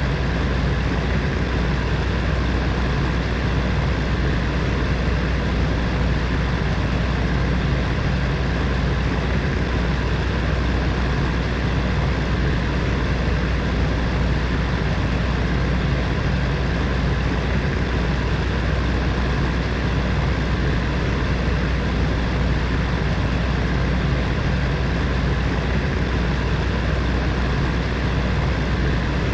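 Electric heater fan running steadily: a continuous whooshing hum, strongest low down, with no change in speed.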